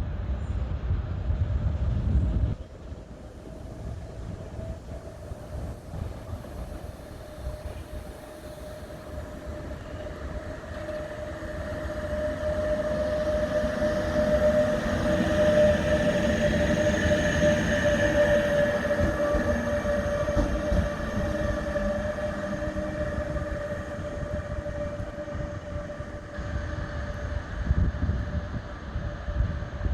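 A train running past on the tracks, with a steady whine that grows louder toward the middle and then fades, over a low rumble.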